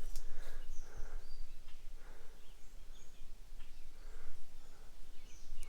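Low background noise with a few short, faint, high bird chirps scattered through it.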